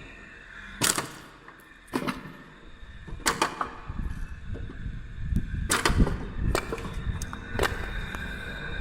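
Sharp cracks and knocks of logs being split by a homemade electric mechanical wood splitter, five in all at uneven intervals, over a steady machine whine and rumble.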